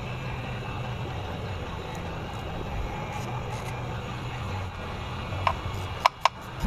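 Steady low background hum, then three sharp metallic clinks near the end, the last two in quick succession.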